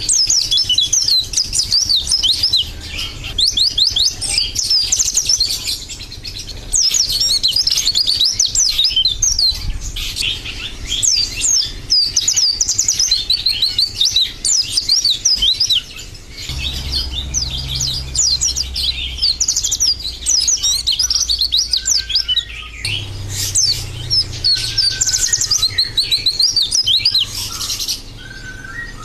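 White-eye (pleci) singing: a long, fast run of high, twittering chirps with a few brief pauses.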